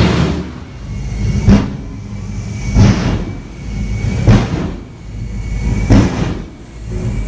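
Jet truck's turbine engine running with a steady rumble, broken by four loud afterburner blasts about every one and a half seconds, the fuel-dump pops that jet trucks fire for show.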